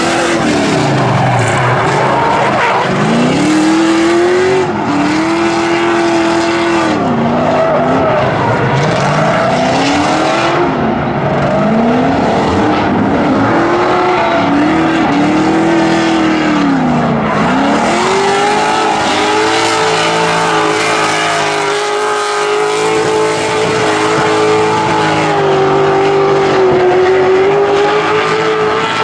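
Drift car engine revving hard, its pitch climbing and dropping again and again with throttle changes, then held high and nearly steady from a little past the middle, with tire noise underneath.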